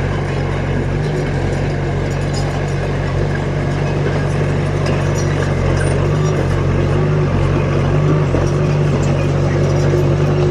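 Diesel engine of a heavy earthmoving machine running steadily, with a slight rise in loudness in the second half.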